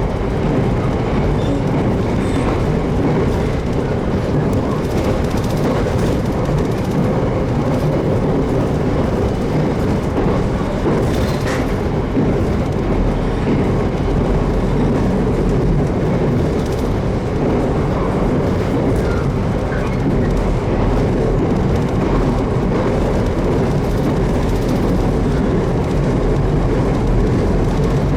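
JR Kyushu 813 series electric train running at speed, heard from inside the passenger car: a steady rumble of wheels on rail with faint clicks of the rail joints.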